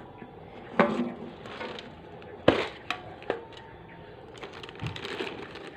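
Cats eating from a dish: a few sharp knocks and clatters with crunching, then a run of small clicks near the end.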